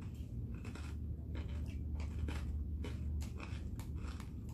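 A person chewing food close to the microphone, with irregular wet mouth clicks several times a second. A low steady hum sits underneath.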